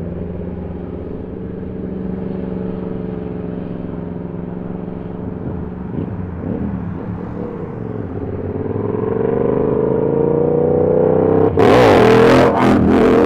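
Superbike engines running steadily, then a motorcycle engine rising in pitch and getting louder as it revs and accelerates close by. It peaks near the end with a few sharp cracks.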